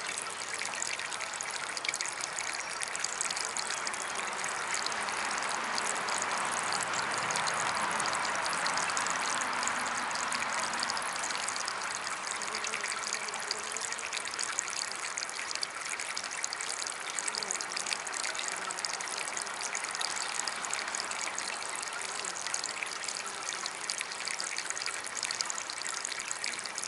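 Water trickling steadily from a small DIY water fountain, swelling a little about a third of the way through.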